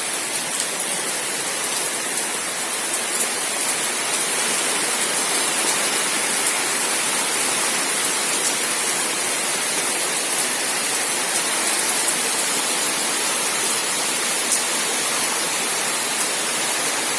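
Steady rain falling at night, an even hiss with scattered sharp drop ticks.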